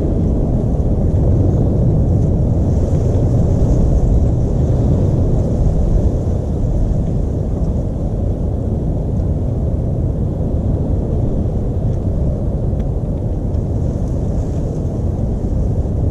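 Steady low rumbling noise, with its energy mostly in the low range.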